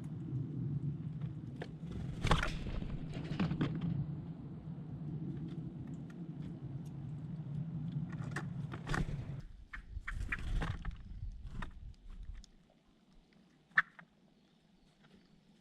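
Birds calling, with several short noisy bursts over a low steady hum that cuts off suddenly about nine seconds in; it is fairly quiet after that.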